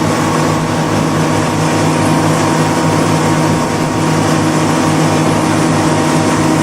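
Tour boat's engine running steadily under way, a constant low hum with an even hiss over it.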